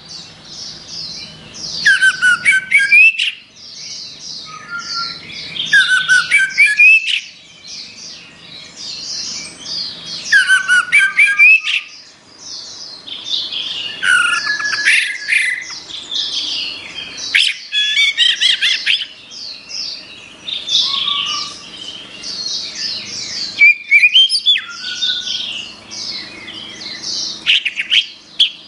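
Orange-headed thrush (anis merah) singing: loud, varied bursts of rapid whistles and chattering notes, each a second or two long, repeated every few seconds.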